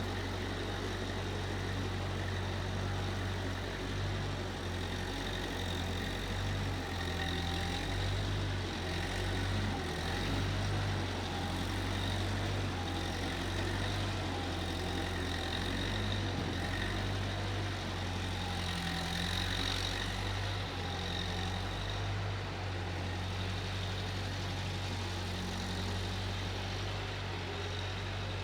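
Case 1530 Uni-Loader skid steer's engine running steadily, a low, even engine note that holds through the whole stretch.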